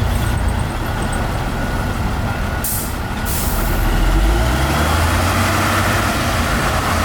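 Heavy diesel dump truck engine running, with a short hiss of released air about three seconds in, then the engine rising in pitch as it revs up.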